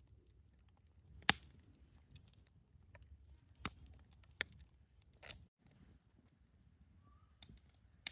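Campfire burning with a faint low crackle and four sharp pops from the burning wood, the first the loudest.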